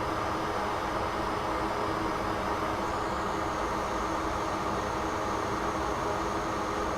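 Steady, unchanging fan hiss with a faint hum under it.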